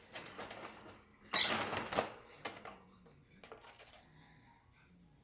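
Pet lovebirds scratching and rustling about, with a loud scrabbling burst about a second and a half in, followed by a few sharp clicks and taps.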